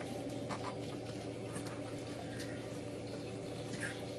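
Steady hum inside a passenger train carriage, a low drone with a few held tones and faint scattered clicks and rattles.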